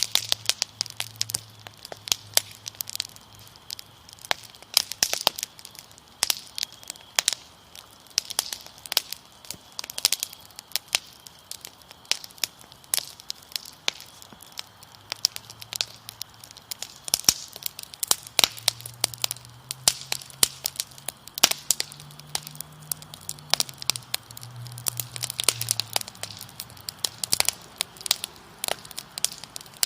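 Wood fire crackling with many irregular sharp pops and snaps, over faint steady chirring of crickets.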